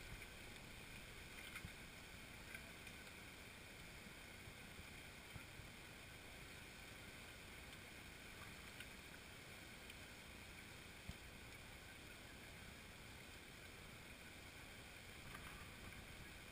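Near silence: a faint steady hiss of outdoor air, with a few faint ticks.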